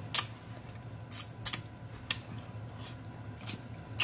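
Close-miked wet chewing and lip-smacking of a mouthful of pork, with about half a dozen sharp smacks and clicks at uneven intervals.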